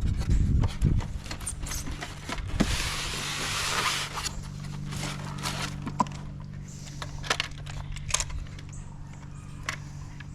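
Packaging being handled: a stretch of rustling about two seconds in and scattered light clicks and knocks as parts are taken from the box, over a steady low hum.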